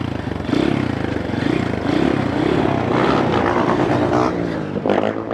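Small dirt bike engine revving up and falling back several times as the bike is ridden hard.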